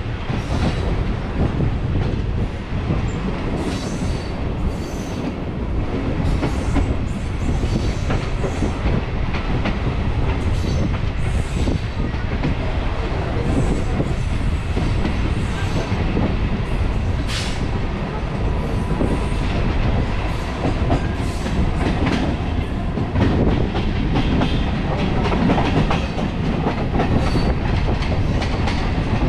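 MEMU electric passenger train running along the track, heard from its open doorway: a steady rumble of wheels on rail with irregular clicks and knocks as the wheels pass rail joints, one sharper clank about two-thirds of the way through.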